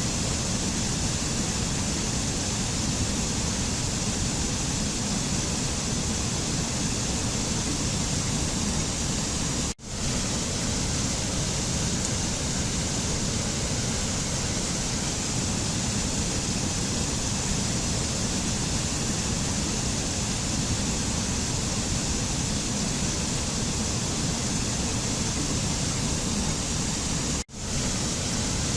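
Waterfall: a steady sound of falling water, with two momentary dropouts, one about ten seconds in and one near the end.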